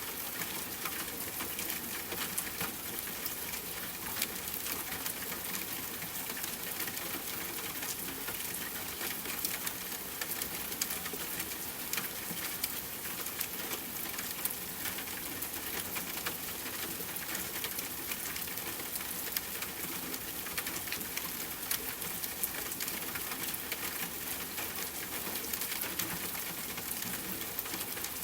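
Steady rain falling, an even hiss dotted with the sharp ticks of individual drops.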